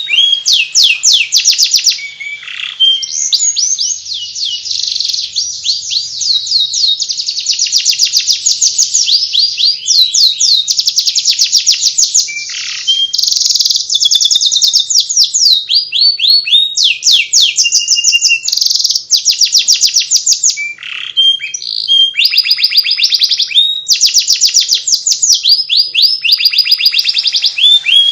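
Domestic canary singing in the fast twittering 'ngeriwik' style: a loud, nearly continuous run of rapid repeated chirps and trills, the phrase changing every second or two, with brief breaks.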